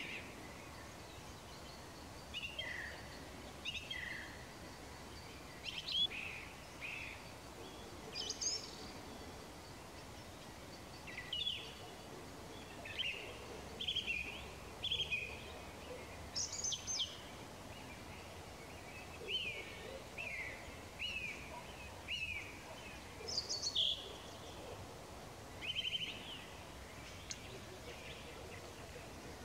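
Wild songbirds singing: a string of short chirps and quick falling notes, one every second or two, over faint outdoor background noise.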